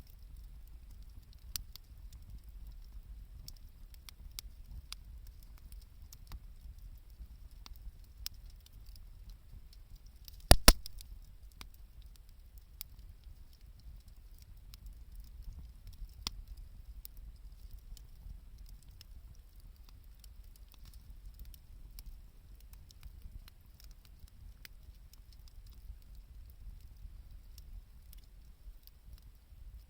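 Wood fire crackling with scattered small snaps over a low rumble, and two loud pops close together about ten seconds in.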